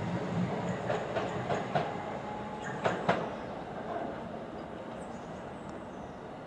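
Passenger train running through the station, its wheels clacking over rail joints in irregular clicks over steady rumble, the loudest pair of clacks about three seconds in, then the sound fading as it draws away.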